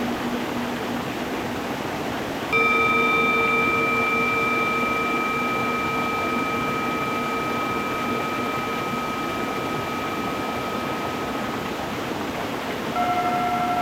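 A stream running steadily over stones, with a singing bowl struck about two and a half seconds in, its ring fading slowly over roughly nine seconds. A second bowl with a different pitch is struck near the end.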